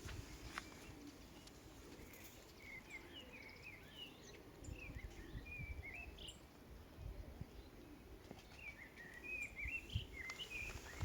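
Small birds chirping and twittering in quick runs of short notes, over a faint low rumble.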